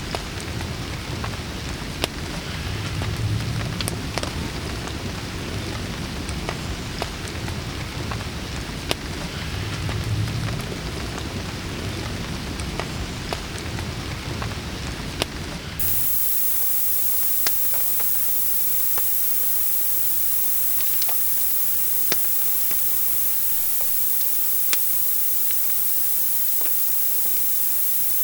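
Rain falling on a surface, with scattered sharp drop taps and a low rumble. About sixteen seconds in it cuts suddenly to a steady, even hiss with occasional sharp ticks.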